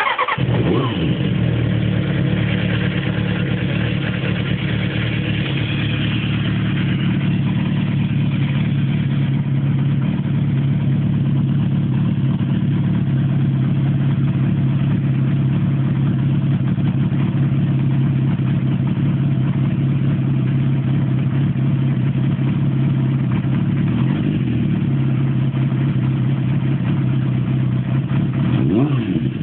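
Kawasaki ZXR400's inline-four engine firing up and settling into a steady idle, heard close to its aftermarket slip-on exhaust silencer. It rises and falls briefly once near the end with a blip of the throttle.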